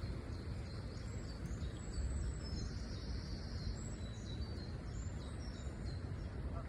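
Small birds chirping in short, high notes over a steady low rumble of outdoor background noise.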